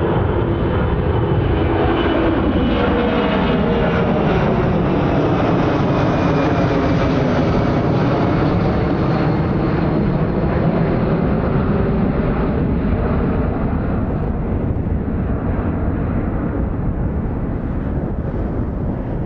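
Boeing C-17A Globemaster III's four Pratt & Whitney F117 turbofans running at full power on departure: a loud, steady jet noise with a whooshing sweep that falls and rises again through the middle, easing slightly near the end.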